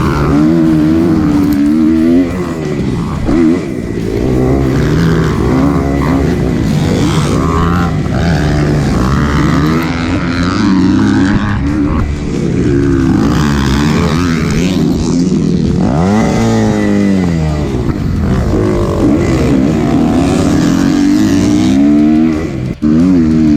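Single-cylinder four-stroke dirt bike engine, a Kawasaki KX250F, being ridden hard: it revs up and drops back again and again as the throttle is worked. About two-thirds of the way through the revs fall off in one long sweep before picking up again.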